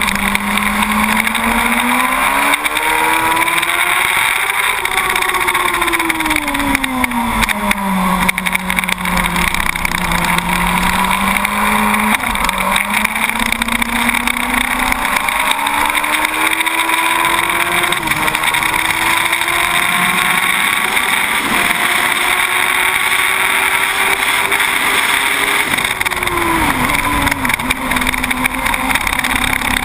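2006 Yamaha YZF-R1 SP inline-four engine heard onboard at speed, its pitch rising and falling with the throttle through the bends, stepping at gear changes and dropping sharply near the end as the revs come down. A steady rush of wind runs under the engine note throughout.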